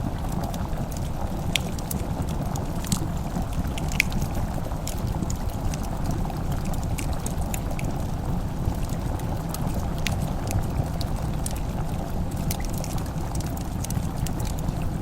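Wood fire crackling: scattered sharp pops and snaps over a steady low rumbling background.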